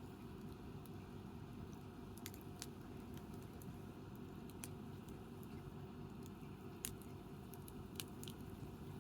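Wood campfire crackling: scattered sharp pops, loudest a little before the end, over a low steady noise.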